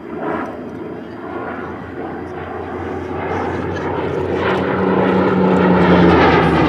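Hawker Hurricane's Rolls-Royce Merlin V12 engine droning in a low flypast, growing steadily louder and peaking near the end as the aircraft comes close.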